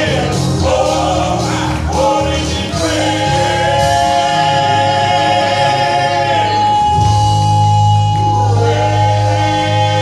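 Live gospel song by a male vocal group with instrumental backing: voices singing in harmony, holding a long chord through the middle, over a bass line.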